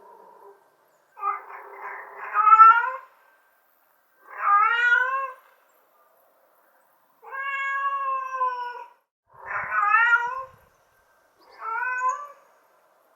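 Domestic cat meowing five times in a row, with short pauses between the calls. The fourth meow is long and held at a steady pitch; the others rise and fall.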